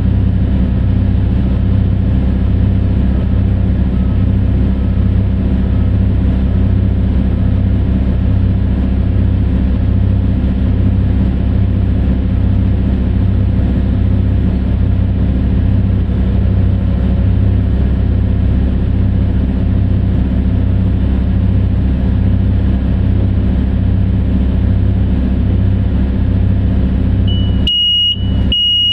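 The diesel engine of heavy mining machinery runs steadily with a deep low rumble. About a second before the end, a high-pitched electronic alarm starts beeping in even pulses, about one a second, typical of a reversing alarm.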